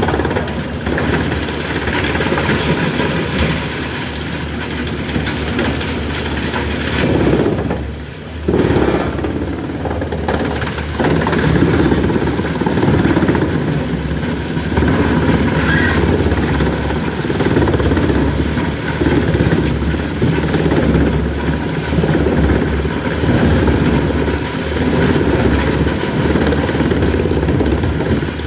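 A heavy engine running steadily, its level wavering up and down, with a brief drop about eight seconds in.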